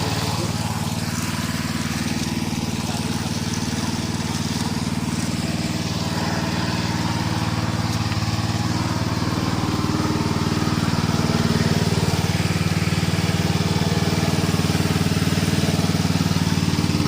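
Small engine running steadily at a constant speed, a little louder about two-thirds of the way through.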